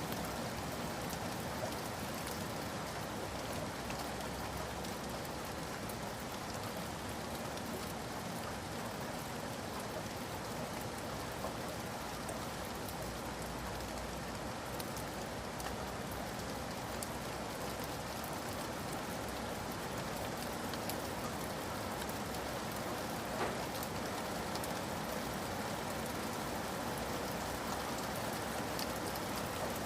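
Steady rain falling, an even hiss of many drops with scattered individual drop ticks, one a little sharper about 23 seconds in.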